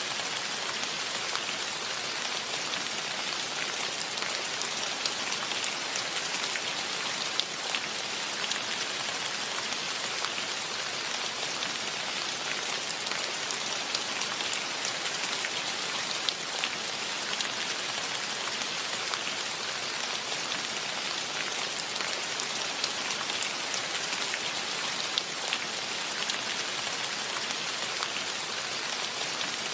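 Steady rain falling on foliage, a dense even hiss with scattered louder drops striking close by.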